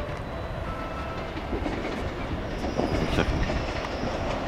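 Ube Line electric train pulling into the station, its wheels clacking over the rail joints and growing louder. A thin high squeal sets in about halfway through and holds.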